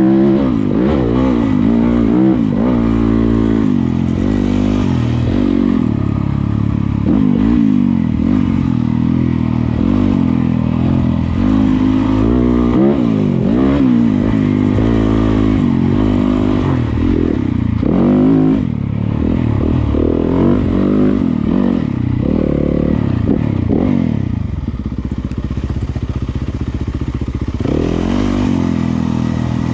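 Yamaha YZ250FX single-cylinder four-stroke dirt bike engine revving up and down with the throttle as it is ridden on a trail, with clatter from the bike. For a few seconds past the middle the engine holds lower and steadier before revving again.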